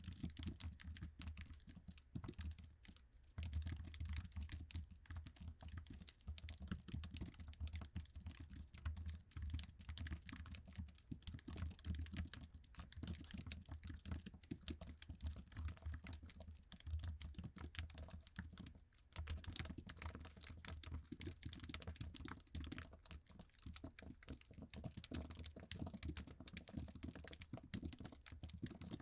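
Typing on an iMac's stock Apple keyboard: a fast, steady stream of light key clicks, with brief pauses about three seconds in and again around nineteen seconds.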